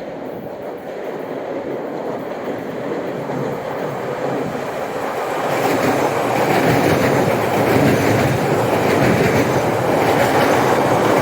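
MBTA Orange Line subway train running along the track, its wheels rumbling on the rails. The sound grows louder about halfway through as the train comes closer, then holds steady.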